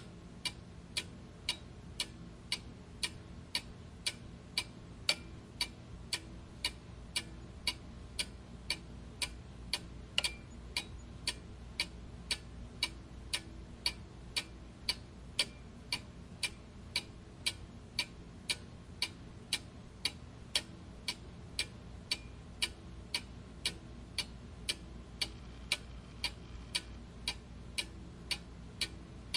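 Mechanical clock ticking steadily, about two even ticks a second, over a faint low hum.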